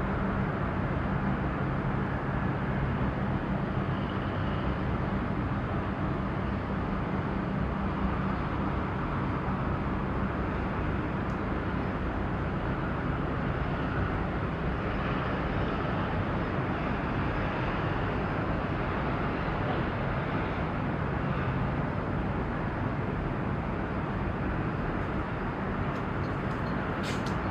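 Steady harbour ambience: an even wash of noise under a low engine drone that fades about three quarters of the way through, with a few faint clicks near the end.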